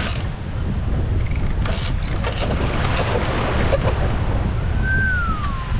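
Wind buffeting the microphone in a steady low rumble, with sea noise, aboard a sailing yacht under way. Near the end comes one short whistle-like tone that slides downward.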